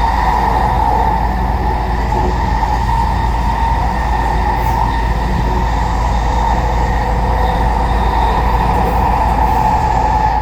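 Train in motion: a steady low rumble of wheels on track with a constant hum over it.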